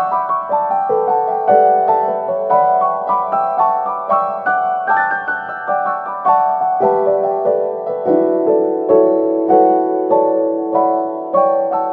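Background piano music, with a steady stream of struck notes and chords.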